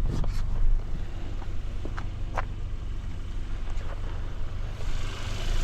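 Kia Forte GT's turbocharged four-cylinder direct-injection engine idling steadily shortly after start-up, with a few light clicks. A hiss comes up near the end.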